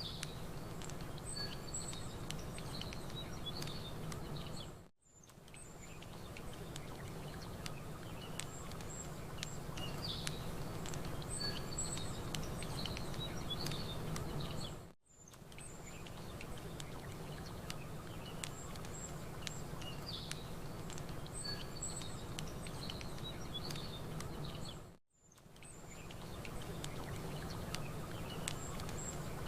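Campfire and lakeside ambience: small birds chirping over a steady wash of gentle water, with faint fire crackles. The sound fades briefly to near silence about every ten seconds, where a ten-second loop restarts.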